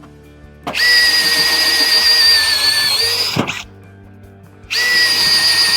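Electric drill boring 5/16-inch holes through sheet metal for plug welds: two runs of a steady high whine, each about two and a half seconds long, the pitch dipping briefly near the end of each run.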